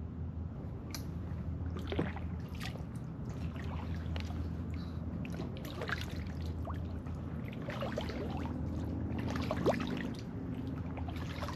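Kayak paddle dipping into calm water, with scattered drips and small splashes from the blade, over a steady low hum.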